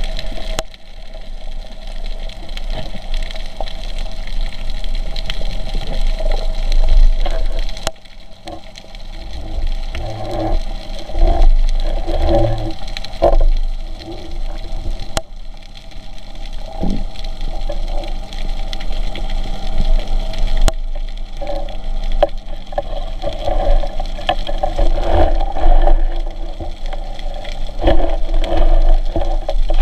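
Muffled underwater noise heard through a camera housing: water moving and a low rumble, swelling and fading, with a steady hum underneath.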